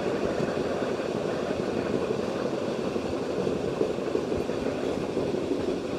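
Passenger train running along the track, a steady running noise of wheels on the rails, heard at an open window of the moving coach.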